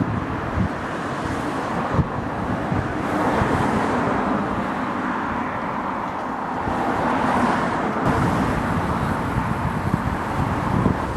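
Wind buffeting the microphone over a steady wash of sea.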